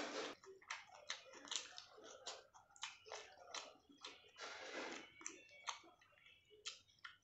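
A person chewing mouthfuls of rice and curry close to the microphone: a run of irregular short mouth clicks and smacks, with one longer noisy stretch about halfway through.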